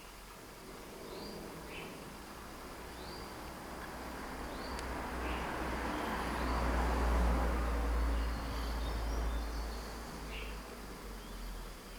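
Outdoor ambience: short, high, rising chirps repeat about once a second, over a low rumble that swells to its loudest past the middle and then fades.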